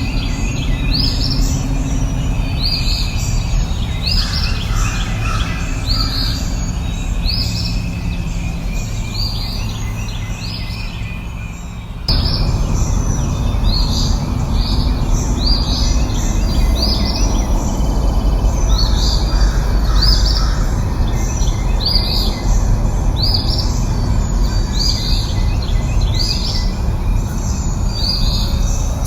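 Songbirds chirping, a short high falling note repeated about once a second, over a steady low rumble. The whole soundscape jumps louder abruptly about twelve seconds in.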